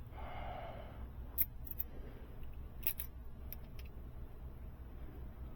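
Hand tools working on a diesel engine's overhead: a brief rustle, then about half a dozen sharp metallic clicks spaced irregularly over a few seconds.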